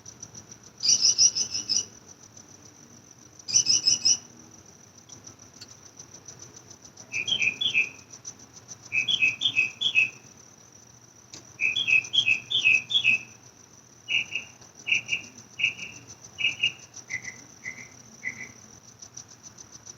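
A songbird singing at night, in groups of quick repeated chirps that end in a run of single notes stepping down in pitch, over a steady high insect trill. Two short bursts of rapid, higher chirping in the first few seconds are the loudest sounds.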